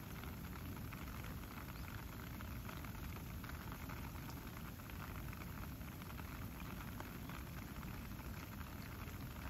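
Light rain pattering steadily on grass and wet ground, a dense, even crackle of small drops.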